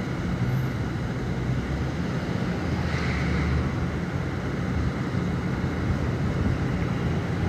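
Steady low vehicle rumble with wind on the microphone, and a brief hiss swelling about three seconds in.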